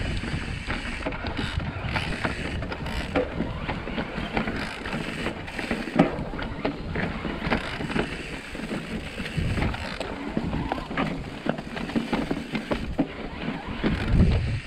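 Electric mountain bike being ridden over rough trail: tyres rumbling, with frequent clicks and rattles from the chain and frame, and wind buffeting the microphone.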